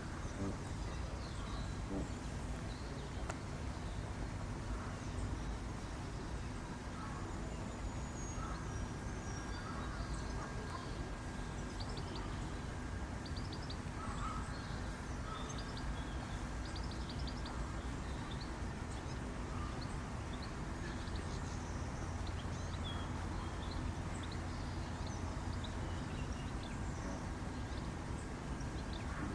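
Steady low background hum of a zoo enclosure, with faint, quick high chirps of small birds scattered through the middle.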